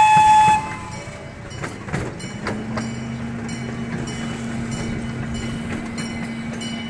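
Small zoo train toots once, a short steady tone of about half a second. The train then runs along with a steady low engine hum that sets in about two seconds in.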